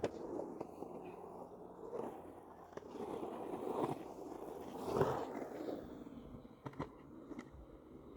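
Skateboard wheels rolling and scraping over rough ground: a knock at the start, then a rough rumble that swells and fades, with a few sharp clicks near the end.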